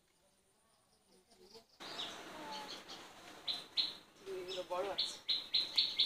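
Outdoor village ambience: a bird chirping over and over, about three short chirps a second, starting about three and a half seconds in, with faint voices in the background. The first second and a half is nearly quiet.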